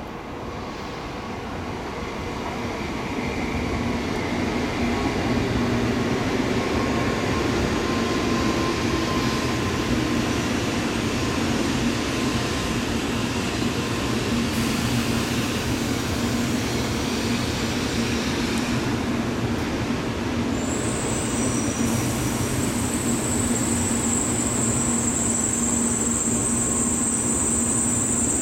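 N700A Shinkansen train pulling into the station, its rumble growing over the first few seconds, then holding steady as the cars roll past along the platform. About two-thirds of the way through, a high steady squeal joins in and keeps going.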